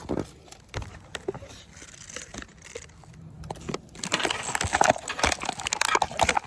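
Bonfire crackling, with scattered sharp pops that turn into a loud, dense crackle about four seconds in.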